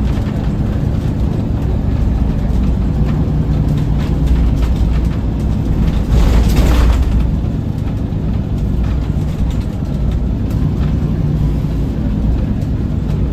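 Scania L94UB city bus running under way, its five-cylinder engine giving a steady low hum with road noise, and a hiss lasting about a second around the middle.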